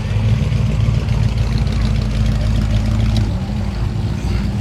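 A car engine running close by with a low, steady rumble. Its pitch shifts slightly a little after three seconds in.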